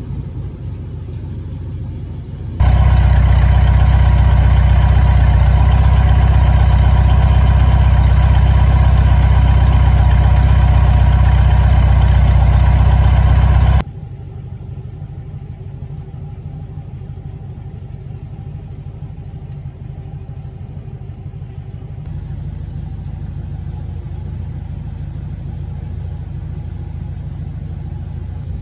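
Air-cooled Volkswagen Beetle flat-four engine idling steadily just after being started. For about eleven seconds in the middle it is much louder and fuller, as if heard close up.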